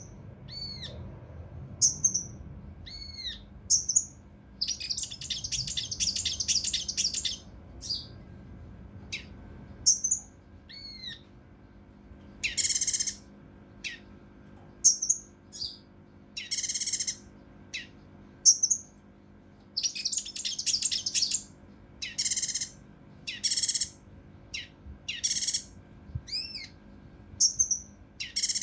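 A cucak rante mas (kinoi) calling in agitation. It mixes short, sharply rising-and-falling whistled notes with harsh, rasping bursts half a second to a second long, one every second or two, and the rasping bursts come thicker in the second half.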